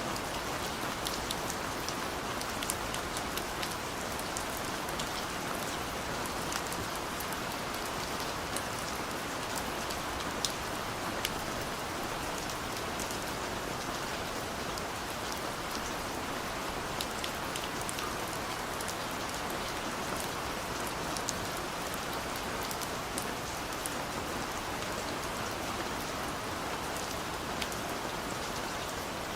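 Steady rain falling, an even hiss with many small drop ticks scattered throughout.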